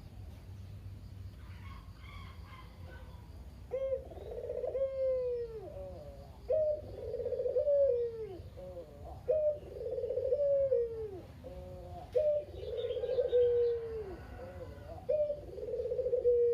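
A local puter dove (a caged turtle dove) cooing in a steady series: from about four seconds in, about five coos, each a short sharp note then a longer drawn-out one, repeating every two to three seconds.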